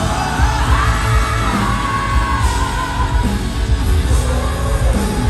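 Live pop-rock concert music: the band playing loudly under a long held sung note that wavers and slowly slides down, with yelling voices mixed in.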